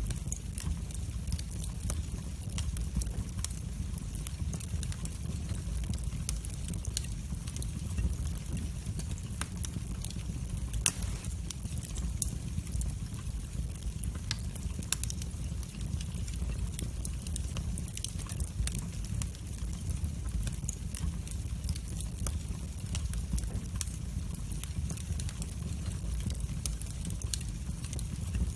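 Wood fire burning in a fireplace: a steady low rumble of the flames with frequent small crackles and pops, one louder pop about eleven seconds in.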